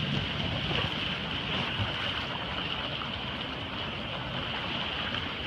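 Fast-moving floodwater rushing steadily, with wind rumbling on the microphone.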